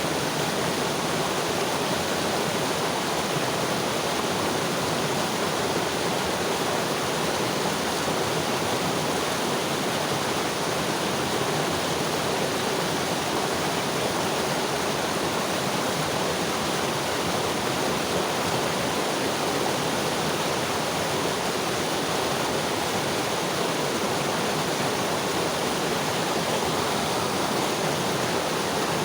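Mountain river flowing over rocks: a steady rush of water with no change.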